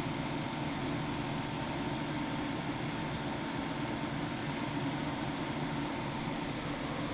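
Steady machine noise, a constant hum and hiss with a faint, unchanging tone, and a few faint high ticks in the middle.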